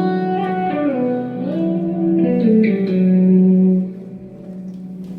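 Electric guitar played through an amp: a few sustained lead notes with slides and bends, then a last held note that rings on more quietly from about four seconds in.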